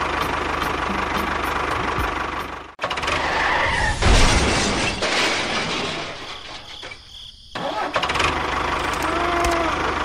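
A tractor engine running with a fast, even knock, cutting out briefly just before three seconds in and again around seven seconds before running on.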